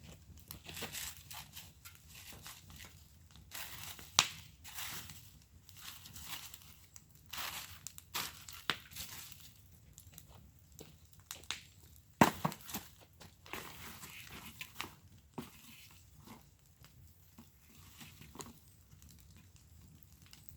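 Wood fire burning in a fire pit, crackling with irregular snaps and hisses; two sharp pops stand out, about four seconds in and about twelve seconds in.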